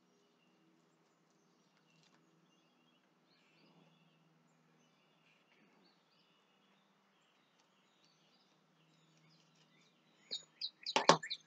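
Faint bird chirps over quiet outdoor background. Near the end a bird breaks into a loud, quick run of repeated notes, and a single sharp knock sounds with it.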